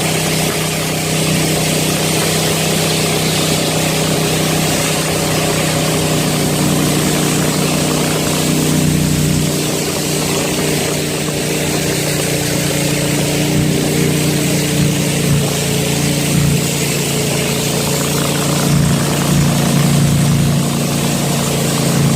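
Small fishing boat's engine running steadily under way.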